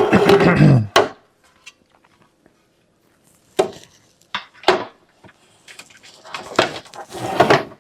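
Hard plastic parts of a bird feeder kit being handled and fitted together: a pitched sound falling in pitch in the first second, then a few separate knocks and a longer stretch of clattering near the end.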